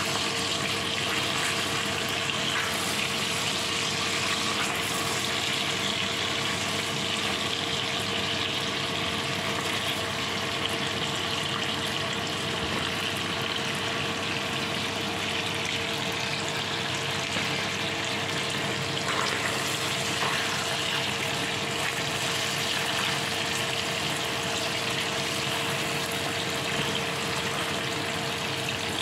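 Chicken thighs sizzling steadily as they pan-fry in oil with chopped garlic and scallions, with a steady low hum underneath.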